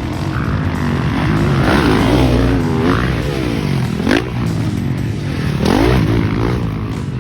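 Motocross dirt bike engine revving hard and dropping off again and again as the throttle is opened and chopped, with a sharp quick rev about four seconds in and another climb near the end.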